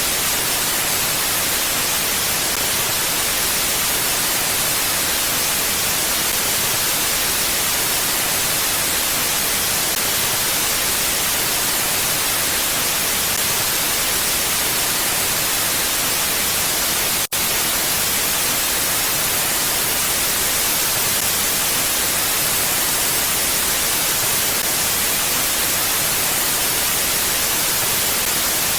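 Steady, even hiss of mountain wind ambience, strongest in the high end and unchanging throughout. It has one split-second dropout about 17 seconds in.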